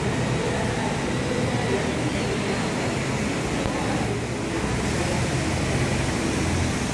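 SMRT North South Line electric train moving away along the elevated track: a steady rumble and hum, mixed with road traffic.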